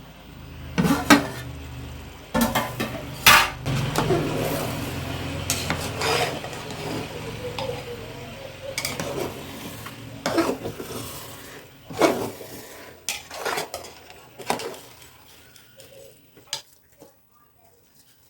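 Metal lid and ladle clanking and scraping against a cooking pot as it is opened and worked, a sharp clank every second or two, thinning out near the end.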